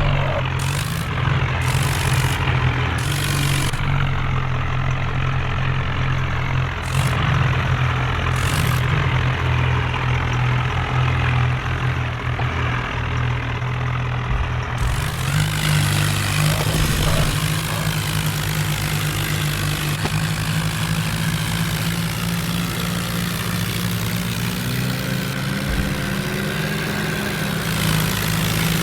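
Diesel tractor engines running steadily at a low, heavy note, the pitch shifting a little partway through.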